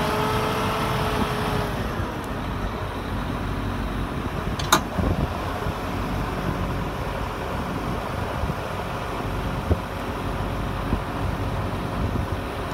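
Combine harvester and tractor diesel engines running steadily while the combine unloads edible beans. A whine fades out in the first two seconds, and there is a sharp click about five seconds in.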